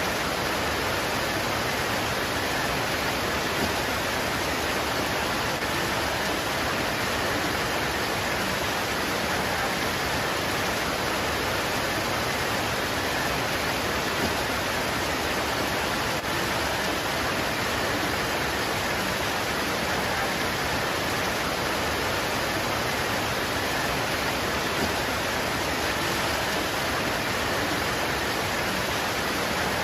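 Steady rain pouring onto leaves, an even, unbroken hiss with no separate drops standing out.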